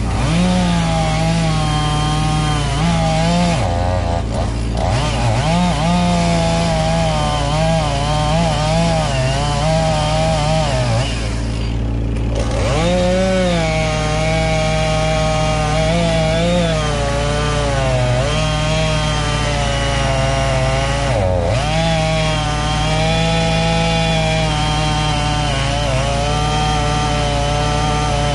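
Chainsaw cutting into a large tree trunk, its engine pitch wavering as it bogs and recovers under load. The throttle eases off briefly about four, twelve and twenty-one seconds in before the saw bites again.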